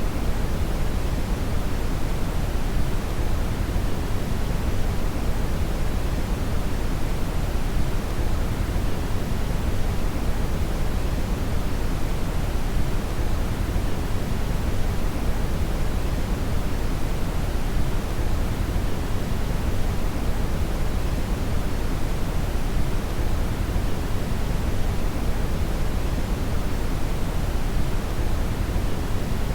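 Steady brown (red) noise: a constant, deep rushing hiss weighted toward the low end, with no change.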